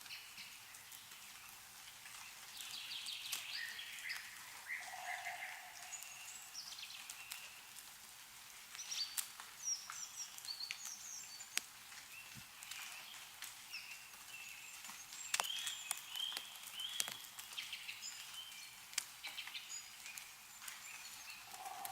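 Small birds chirping and twittering on and off, with scattered sharp drips of meltwater falling from snow-laden trees.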